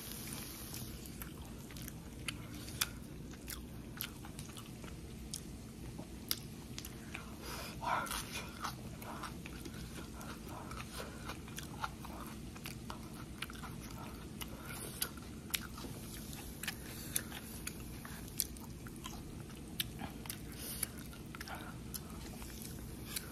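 A person chewing a mouthful of seafood pancake close to the microphone: many small wet clicks and smacks, with a louder mouth sound about eight seconds in.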